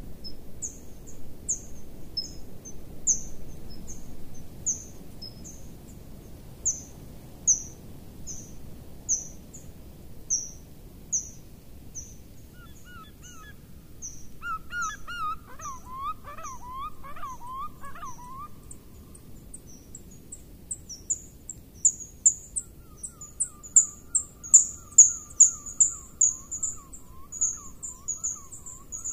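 Birds calling: a running series of short, very high chirps, about two a second at first and thicker and louder in the last third. A lower call of quick, falling notes joins about halfway through and again near the end.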